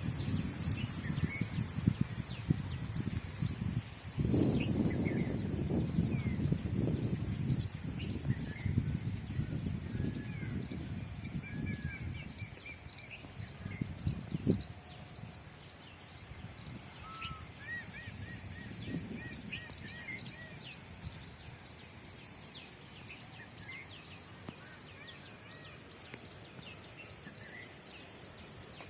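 Rural field ambience: a steady high-pitched insect chorus, like crickets, with scattered short bird chirps. For the first twelve seconds a low rumble of wind on the microphone is loudest; it then dies away, with one sharp knock about fourteen seconds in.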